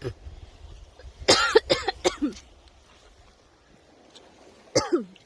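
A man coughing: one short cough at the start, a fit of about four coughs a second in, and one more near the end. He is choking on a spicy mouthful of raw oyster.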